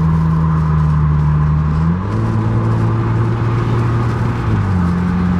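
Car engine with a muffler delete running at steady revs, its exhaust note stepping up to a higher pitch about two seconds in and dropping back near the end.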